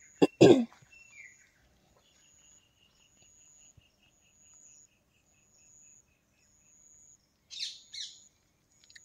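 Birds calling in the open: a run of short high chirps at about four a second, a thin high whistle that comes and goes, and two quick louder chirps near the end. A brief loud knock comes about half a second in.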